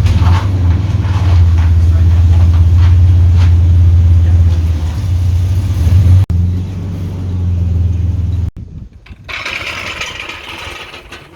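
A vehicle engine running steadily, a loud low hum, which drops away after about six seconds and stops suddenly about two seconds later. A short burst of hiss follows near the end.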